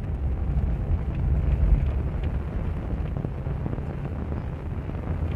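Vehicle running over a rough dirt track, heard from on board: a steady low rumble with small knocks, and wind buffeting the microphone.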